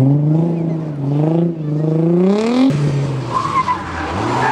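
Nissan 350Z rally car's V6 revving hard and climbing through the gears as it slides on gravel. About two and a half seconds in, the sound cuts to a Volvo 240 rally car: tyres scrabbling on loose gravel with a brief squeal, then its engine rising in revs again near the end.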